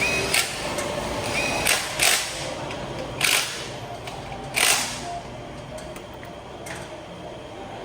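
A series of sharp, separate knocks or clicks, irregularly spaced, over a steady background hum; the strongest come in the first five seconds, and after that only faint ones remain.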